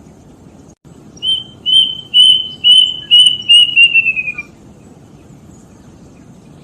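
Kedasih cuckoo singing one phrase of clear whistled notes starting about a second in: about ten notes, level at first, then quickening and falling in pitch at the end.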